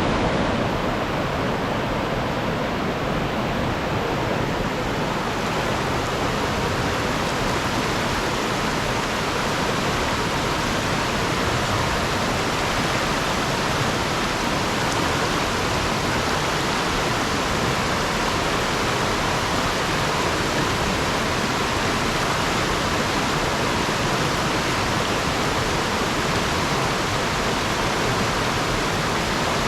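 Fast-flowing river water rushing over and around rocks: a steady, unbroken rush.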